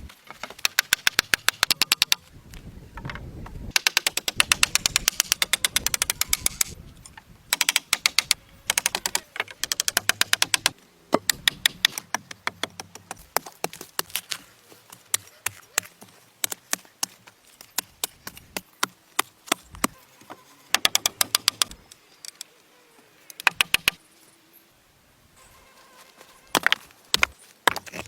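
Bursts of rapid, sharp knocks or taps, many per second, in runs of a second or two with short gaps between them, loudest in the first half.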